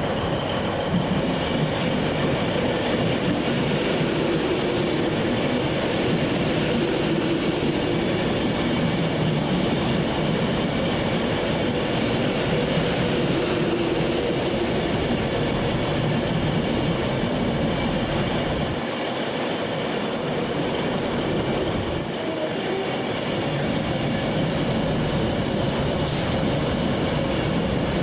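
Railway train running on the track, a steady continuous noise throughout.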